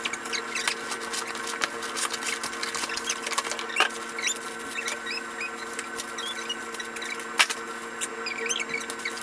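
A box and its packaging being handled and opened: scattered clicks and rustles with many short, high squeaks, over a steady low hum.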